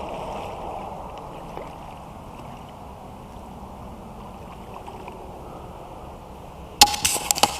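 Steady rushing of flowing river water, with a quick run of sharp clicks and knocks near the end.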